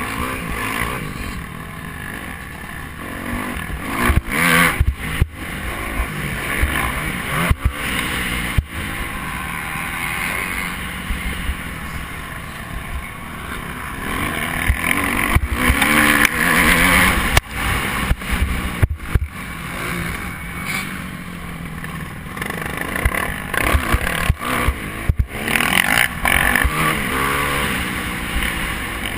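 Motocross bike engine revving up and falling back again and again as the throttle is worked, with several sharp knocks along the way.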